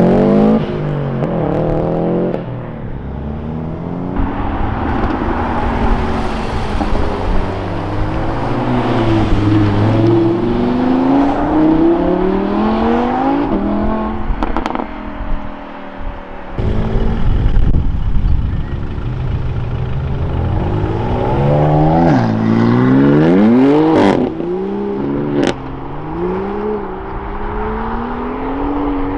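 Modified cars' engines revving and accelerating away one after another, each rising in pitch as it pulls off and passes, with a couple of sharp cracks about two-thirds of the way through.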